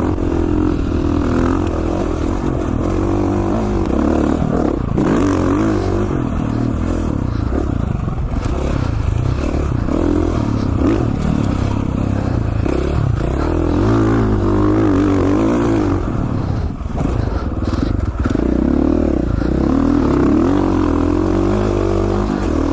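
2017 KTM 450 XC-F four-stroke single-cylinder dirt bike engine running under load on a trail ride, its pitch rising and falling as the rider works the throttle and shifts, with a brief let-off about two-thirds through.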